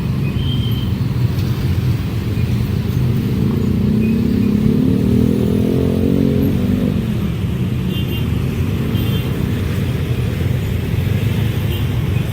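A train running past at speed, with a heavy, steady rumble of wheels on rails. A lower droning tone swells and fades about halfway through.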